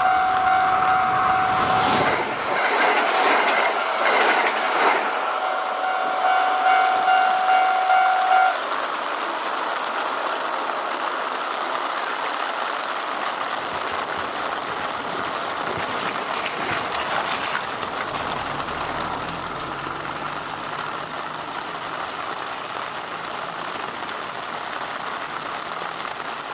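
A Japanese level-crossing alarm bell ringing with a steady, evenly pulsing ding while a Kintetsu train passes over the crossing, loudest about two to five seconds in. The bell stops about eight seconds in, and the train's wheels and running gear on the rails run on, slowly getting quieter.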